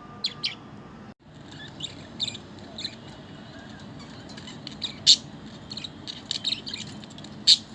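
Budgies chirping: many short, high chirps scattered throughout, with two louder calls about five and seven and a half seconds in.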